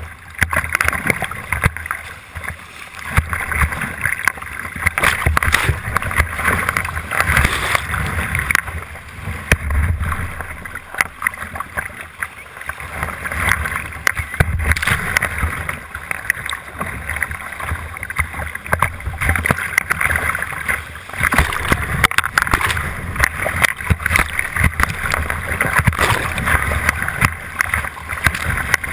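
Whitewater rushing with repeated splashes, heard from a kayak running a rapid; the sound swells and dips unevenly throughout.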